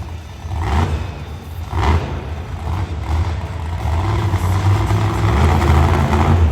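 Monster truck engine running with a deep rumble, revving in short bursts and then building louder over the last couple of seconds.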